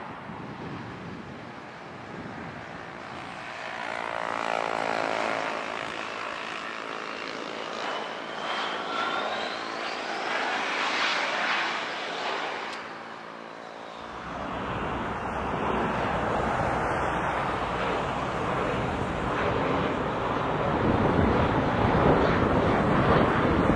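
An airplane flying past overhead, its engine tone sweeping in pitch as it passes. About fourteen seconds in, the sound changes abruptly to a loud, steady rushing of wind on the microphone.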